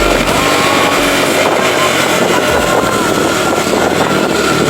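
Motorcycle engine running at riding speed, with wind rushing over the microphone.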